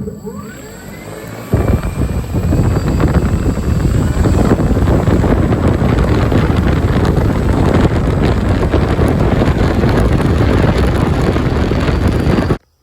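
Large electric RC aircraft motor driving a propeller on a thrust-test stand: a whine rising as it spins up, then loud and steady at about half throttle, with propeller wash buffeting the microphone. It cuts off suddenly near the end.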